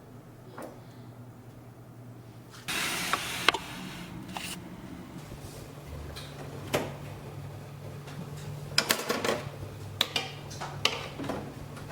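Kitchen objects being handled: a brief hiss about three seconds in, then a series of sharp clicks and knocks, several in quick succession near the end, over a steady low hum.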